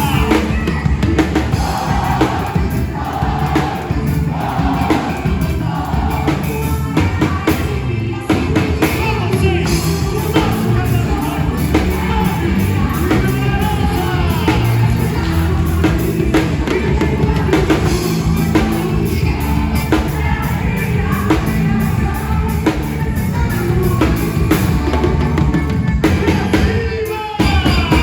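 Band music with a drum kit, bass drum and singing, playing steadily, with a brief dip near the end.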